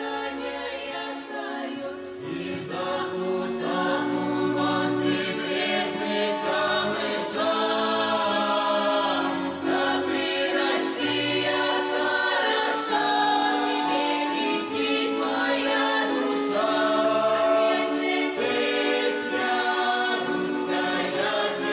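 A youth vocal ensemble singing a Russian song together in several voices.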